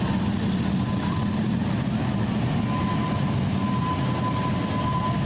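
Many Harley-Davidson police motorcycles with V-twin engines running together at low speed, a steady, even low engine sound.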